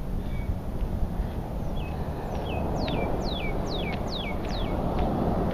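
A songbird sings two short notes, then a run of five quick downslurred whistles about half a second apart, over a steady low rumble.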